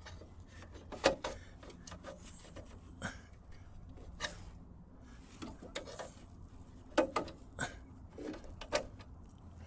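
Wrenches loosening a bolt and 10 mm nut: a few scattered metallic clicks and scrapes, the loudest about a second in and again around seven seconds.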